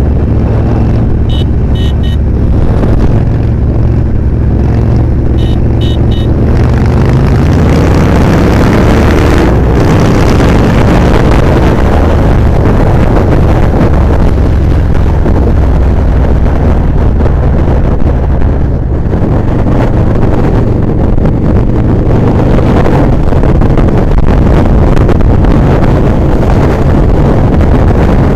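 Motorcycle engine running at road speed, with heavy wind noise on the microphone; the engine note rises about seven to ten seconds in as it accelerates.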